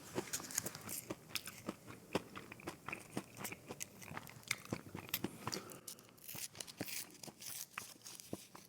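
Close-miked eating of fried mozzarella sticks: biting into the breaded crust and chewing, with many small, irregular crunches and crackles.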